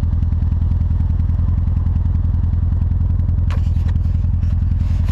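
Turbocharged Nissan 240SX KA24DE-T four-cylinder idling steadily, heard from its exhaust, restarted after a Seafoam soak. A brief clatter comes about three and a half seconds in.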